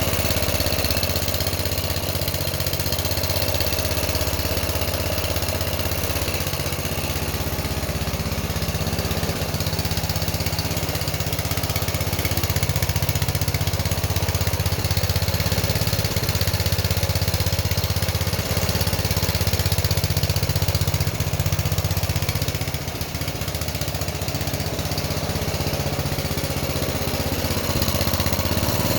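Coleman mini bike's small single-cylinder four-stroke engine running steadily at idle, a little louder for a stretch in the middle. It is back running after a carburettor clean and a new spark plug.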